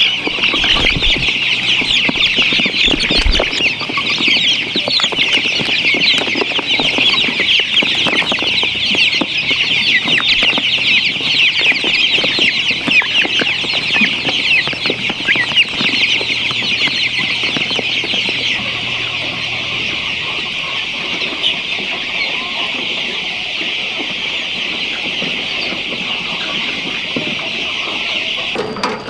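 A large flock of chickens calling all at once: a dense, steady chorus of high cheeping that stops abruptly right at the end.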